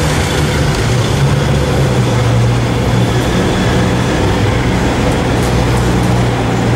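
Koenigsegg Agera R's twin-turbo V8 running at low revs as the car rolls slowly, a steady low drone, inside an underground car park.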